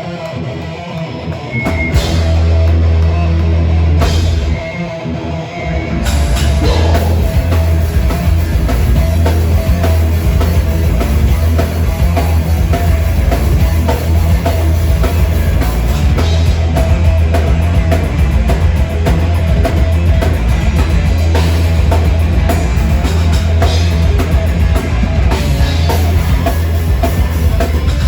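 Live heavy metal band playing, with electric guitars and a drum kit. It is lighter for the first couple of seconds, then the full band comes in about two seconds in, drops back briefly, and hits again at full volume about six seconds in.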